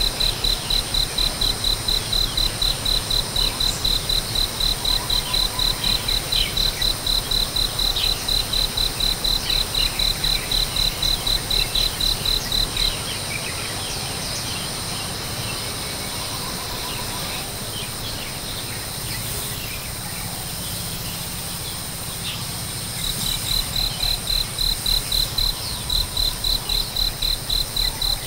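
Insects chirping in a steady, even pulse of about four beats a second, over a continuous high-pitched insect whine. The pulsing stops for about ten seconds partway through and then starts again.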